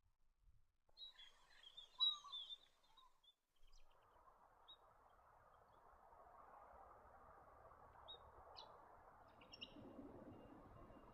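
Quiet bird chirps: a short burst of several calls about a second in, then a few single chirps over a faint steady hiss of natural background.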